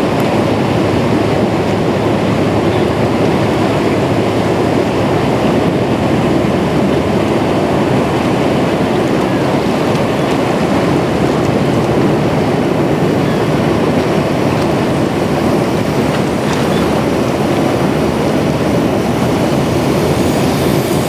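Steady, loud rumbling noise of a vehicle on the move, without a break.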